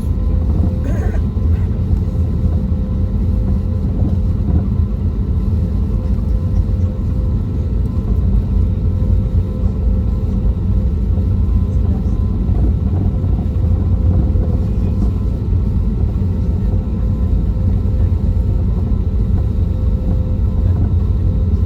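Steady cabin noise inside an Airbus A320neo: a low, even rumble from its CFM LEAP-1A26 engines and the airflow, with a faint steady hum above it.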